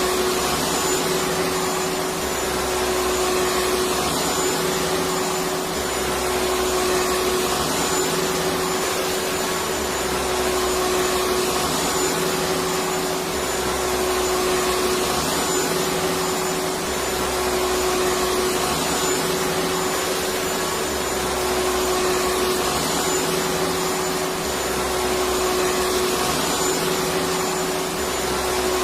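Electric vacuum cleaner running steadily, a loud whooshing with a constant hum, swelling slightly every few seconds.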